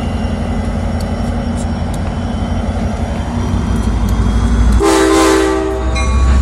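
Sounder commuter train's diesel locomotive running as the train pulls out of the station. A single horn blast lasting about a second sounds near the end, and just after it the engine grows louder.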